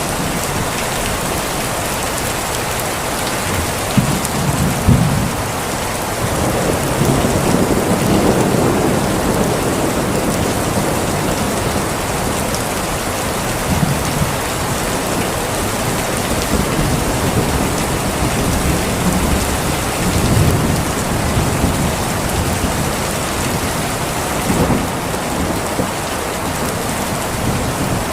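Steady heavy rain in a thunderstorm, a constant hiss of falling water, with low rolls of thunder swelling and fading several times.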